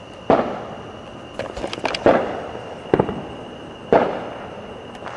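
Fireworks going off: four loud bangs about a second apart, each trailing off in a long echo, with a few smaller crackling pops between the first two.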